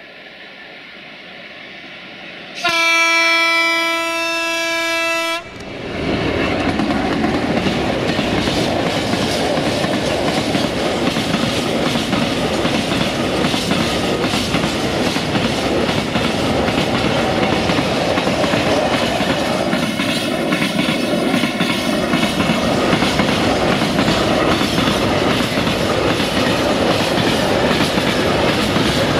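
A Sulzer-engined 060-DA (LDE2100) diesel-electric locomotive approaches with its engine running, then gives one long horn blast of about three seconds. It then passes and a long train of tank wagons rolls by, wheels clattering over the rail joints.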